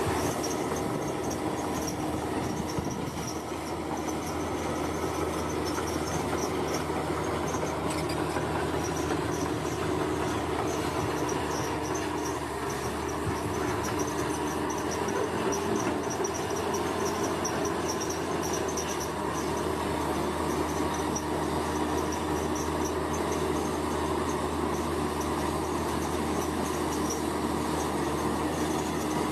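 Heavy construction machinery running steadily, a continuous engine drone with a high, flickering chirp over it.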